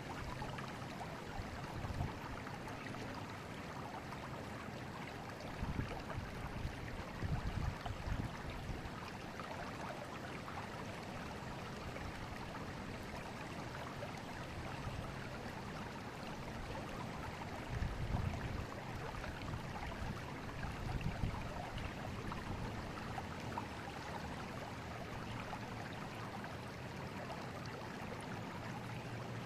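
River water flowing, a steady rushing with no letup, broken by a few brief low rumbles.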